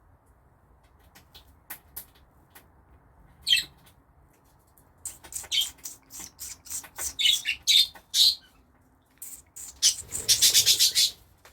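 Budgerigars chirping and squawking, calls scattered at first, then coming thick and fast, with a loud rapid run of chirps near the end.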